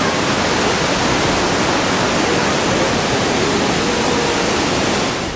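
Waterfall, a loud steady rush of falling water with no let-up.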